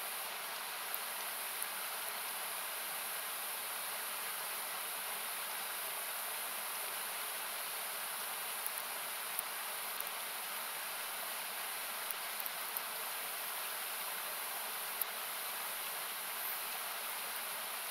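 Steady rushing of a river, its low end cut away by equalisation so that it sounds like hiss, with a wood campfire crackling over it: sharp pops every few seconds, some in quick clusters.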